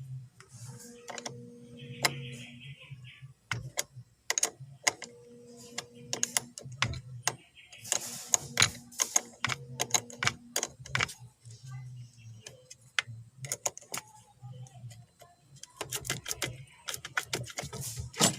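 Hand tools clicking and clinking against metal in a run of sharp, irregular clicks, thickest about halfway through and again near the end, as a Hyundai D4BB starter motor is unbolted.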